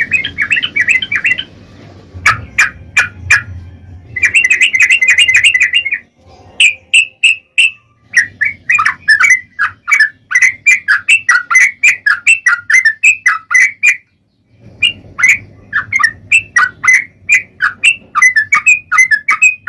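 Sooty-headed bulbul singing in fast, rapid-fire runs of sharp chirping notes (the 'ropel' style prized by bird keepers), broken by a few short pauses.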